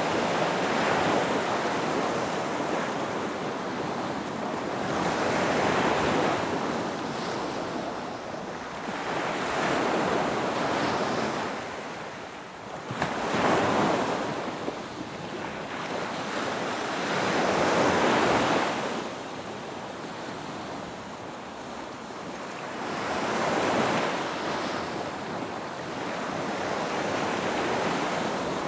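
Ocean waves breaking on a beach, a continuous wash of surf that swells and eases every few seconds as each wave comes in and recedes, with wind on the microphone.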